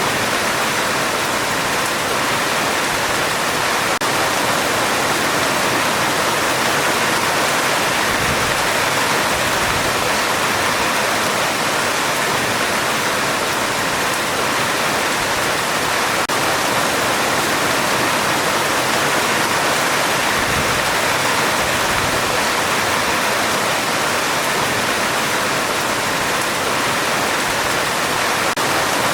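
Heavy rain drumming steadily on a metal roof, a dense unbroken hiss. A faint low rumble, distant thunder, swells briefly twice, about a third of the way in and again about two-thirds through.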